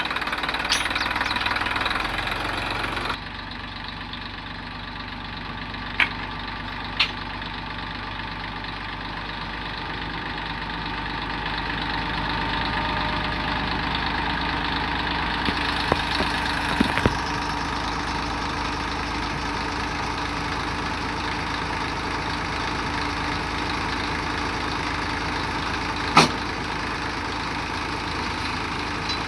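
Tractor diesel engine running steadily, with a few short sharp knocks, the loudest about 26 seconds in.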